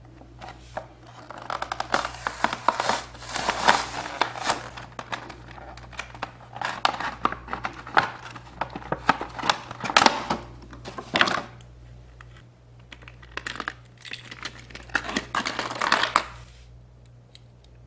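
Plastic blister packaging and cardboard backing of a diecast toy two-pack crinkling and tearing as it is opened by hand, in bouts of scratchy rustling and clicks that stop near the end. A faint steady low hum lies underneath.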